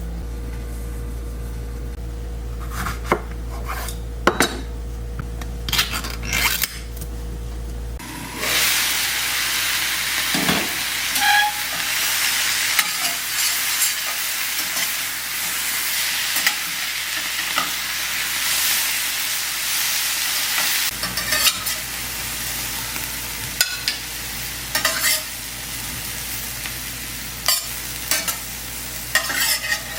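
Food sizzling in a pan, starting about eight seconds in, with the sharp clicks and scrapes of a utensil stirring it. Before the sizzling starts there are only scattered knocks and clicks.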